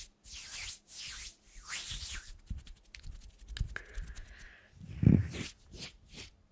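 Rhythmic scratchy rubbing strokes, about one a second. They are followed by a quick run of small clicks and then two dull thuds near the end.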